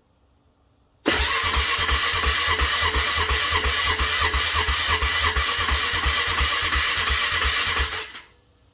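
Car engine cranking on its starter in a cold start after a frosty night, with an even beat of about five compression pulses a second. It cranks for about seven seconds without catching and stops abruptly.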